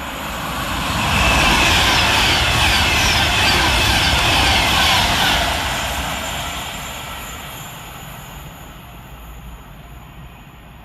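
Avanti West Coast Class 390 Pendolino electric train passing through the station at speed without stopping. The noise builds quickly to a peak over the first second or two and holds for a few seconds, with its pitch falling as it goes by. It then dies away over the last several seconds.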